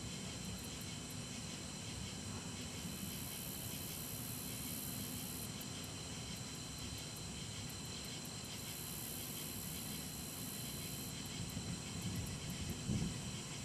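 Steady outdoor hiss, with a faint low rumble of distant thunder beginning near the end.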